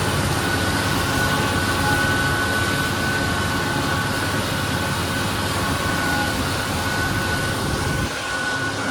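Tractor engine running steadily while cutting hay, a deep rumble with a steady high whine over it. About eight seconds in the low rumble drops away abruptly.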